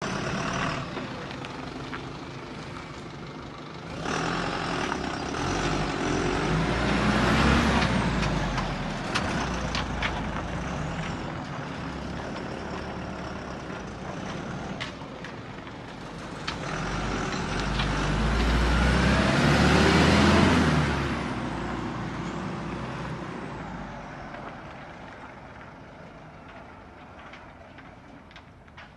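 Iveco Eurocargo truck's diesel engine running. It swells louder twice, then fades toward the end, with a few short clicks in between.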